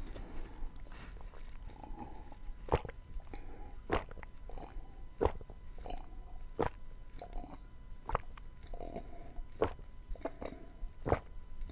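Close-miked chewing of beans with onion and tomato, wet mouth sounds broken by sharp crunchy clicks about every one and a half seconds.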